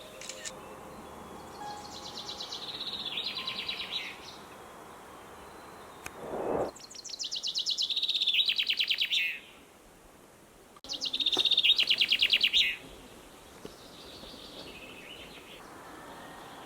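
A small songbird singing a fast trilled song of rapid high notes that step down in pitch. The phrase comes about four times, each a couple of seconds long, and the last one is fainter.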